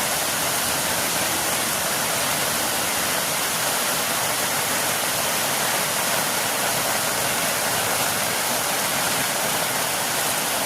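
Extremely heavy rain pouring down in a steady, unbroken hiss.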